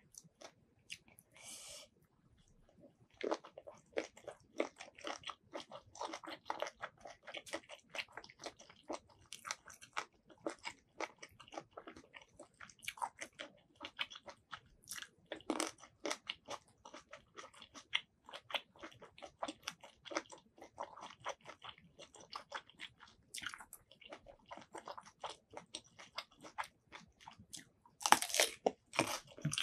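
Close-miked chewing and crunching of spicy squid salad and raw vegetables: many quick crisp crunches and clicks, with a louder crunch just after 28 s as a raw green vegetable is bitten.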